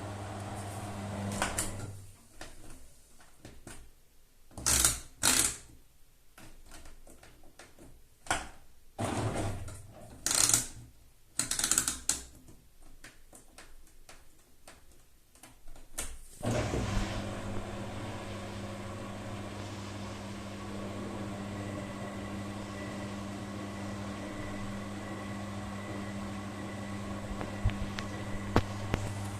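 Beko washing machine in a failing spin test: its steady motor hum cuts out about two seconds in, then comes a stretch of irregular loud clunks and knocks, and about sixteen seconds in the motor hum starts again, steady, with a faint high whine.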